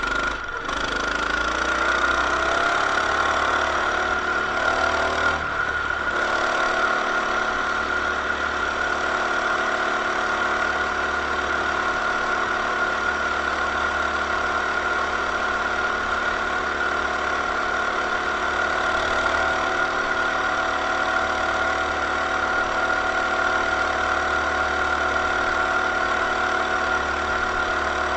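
Coleman BT200X mini bike's 196 cc single-cylinder four-stroke engine running under way. Its pitch rises over the first few seconds as it picks up speed, drops briefly about six seconds in, then holds steady.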